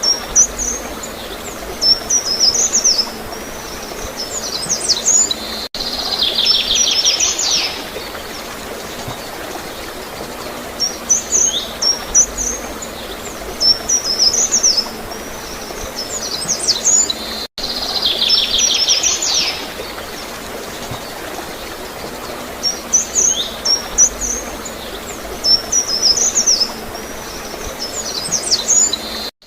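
A small songbird singing short, high chirping phrases every second or two, with a longer buzzy trill twice, over a steady gurgle of flowing water. The same sequence repeats about every twelve seconds.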